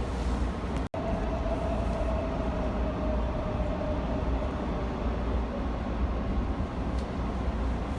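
Steady low rumble like a moving vehicle's running noise, broken by a sudden brief dropout about a second in.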